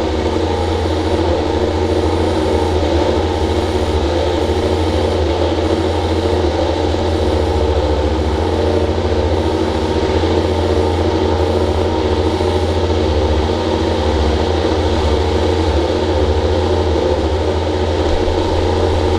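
Racing motorcycle engine running at a steady idle, holding constant revs with no blips of the throttle.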